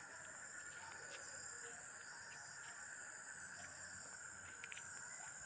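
Faint, steady, high-pitched background noise with no distinct events: room tone in a pause between spoken words.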